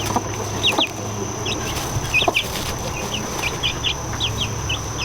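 Baby chicks peeping: a scattered run of short, high peeps, a dozen or so, some in quick pairs.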